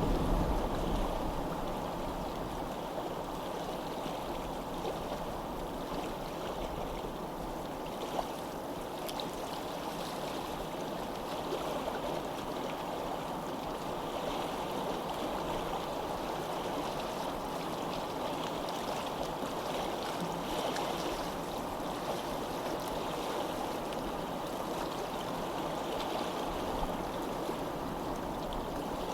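Steady rush of running water from a flowing stream, with a low rumble that fades out in the first couple of seconds.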